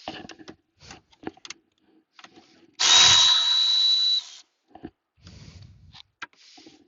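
Power drill running for about a second and a half near the middle, with a steady high whine. Light clicks and clatter of handled parts before and after.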